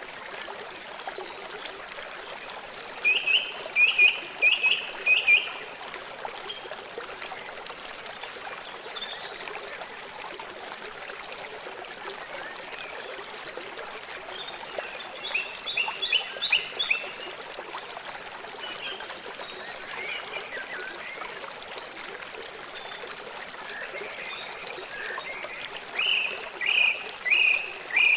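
Steady rush of a forest stream, with birds calling over it: three bursts of short, quickly repeated high notes, near the start, in the middle and near the end.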